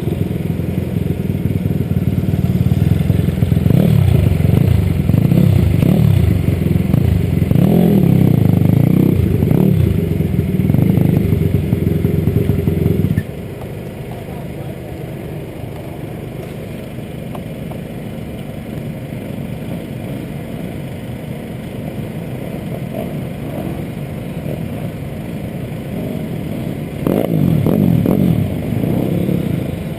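Several pit bike engines revving up and down together, loud, with pitches rising and falling over each other. About thirteen seconds in it drops suddenly to a quieter, steadier engine drone. Near the end a louder burst of revving engines passes.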